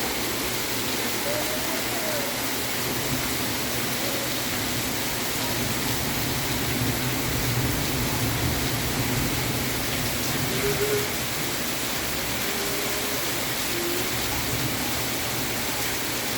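Steady rain falling, an even hiss, with a few faint brief tones in the background.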